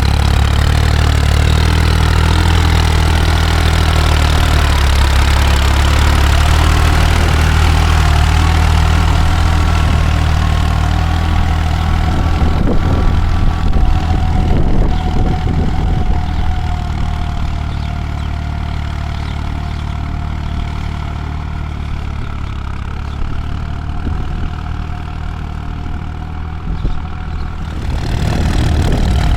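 Jx50t tractor engine running steadily with a deep drone and a higher whine that slowly falls in pitch over the middle. It goes quieter for a stretch in the second half and comes back up near the end.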